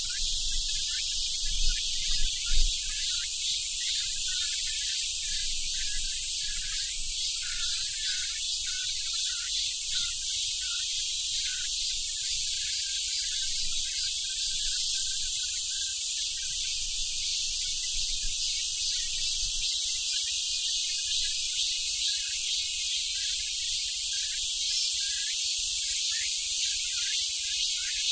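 Korean robust cicadas (Hyalessa fuscata, 참매미) singing: a steady, dense high-pitched buzz with a pulsing, rhythmic song running through it. There are a few brief low bumps about two seconds in.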